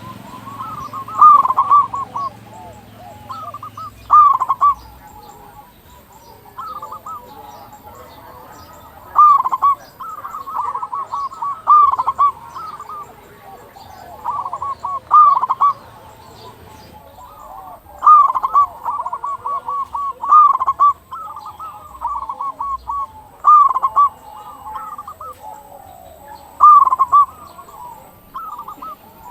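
Local zebra doves (perkutut) cooing: loud rolling coo phrases repeat every two to three seconds, with fainter overlapping coos from other doves between them.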